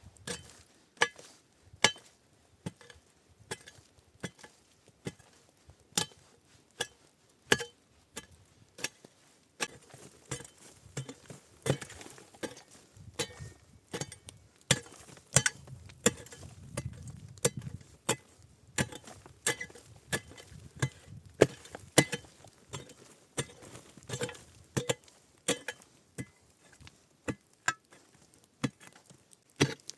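Wood being chopped: sharp, irregular strikes, about one or two a second, each with a brief ring.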